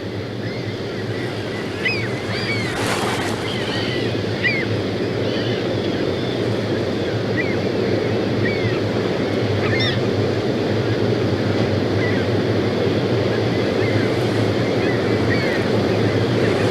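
Gulls calling in short, scattered cries over the steady low roar of Niagara Falls' falling water.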